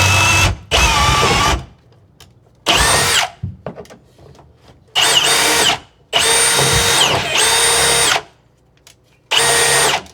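Milwaukee power drill with an auger bit boring a hole through wood. The trigger is pulled in about seven short bursts, each with a whine that rises as the motor spins up and falls as it stops.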